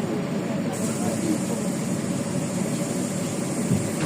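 Steady hum of a LiAZ 5292.65 city bus's Yuchai diesel engine, heard inside the passenger cabin. A steady high hiss joins about a second in.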